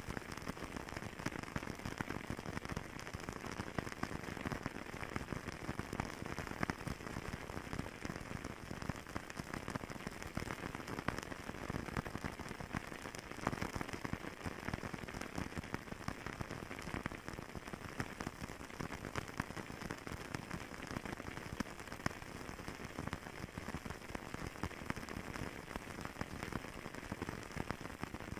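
Fireplace crackling: a steady hiss with dense, irregular pops and snaps.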